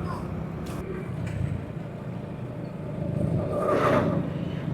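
A Honda Pridor 100cc single-cylinder four-stroke motorcycle engine running steadily on the move, with road noise. A louder sound swells and fades about three and a half seconds in, likely nearby traffic.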